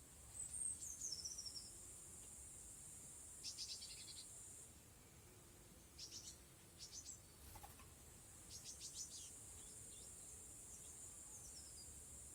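Faint short bursts of rapid bird chirps and twitters over a steady high-pitched insect drone, which cuts out about four and a half seconds in and starts again about four seconds later.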